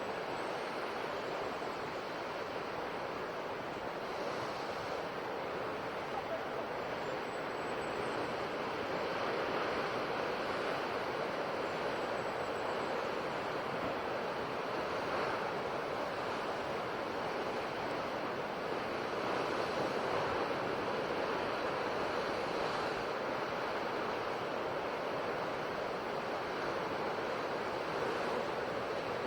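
Ocean waves breaking on a shore: a steady wash of surf that swells and eases gently.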